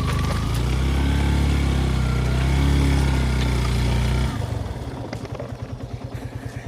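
Yamaha FZ V2's single-cylinder motorcycle engine running under steady throttle. About four seconds in the revs drop and it settles into an even, quick idle throb.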